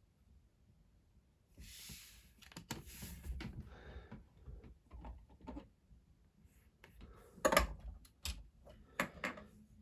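Lego models being handled on a table: a brief rustle, then scattered sharp plastic clicks and knocks, the loudest a few in the last couple of seconds.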